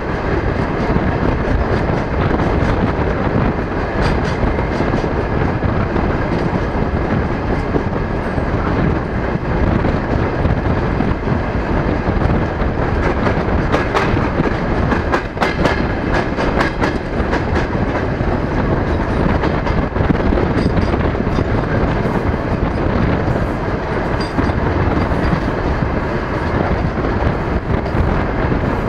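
DR1A diesel multiple unit running along the line, heard through an open carriage window: a steady rumble of wheels on rails, with a quick run of clickety-clack clicks near the middle.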